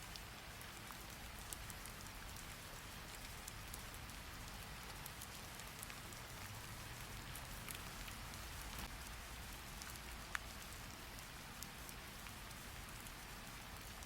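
Steady rain falling, a soft even hiss with scattered sharp little clicks, one louder click about ten seconds in.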